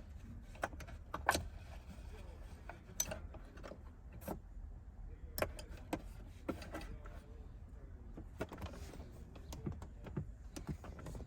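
Irregular clicks and knocks of car interior parts being handled and fitted by hand while refitting the rear seatbelt and trim, over a faint steady low hum.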